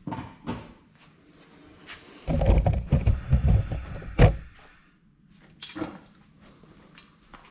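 Clunks and knocks of metal tools and parts during work on a truck's engine mounts: scattered clicks, then about two seconds of irregular heavy thumping and rattling that ends in a sharp knock, and a few more light clicks.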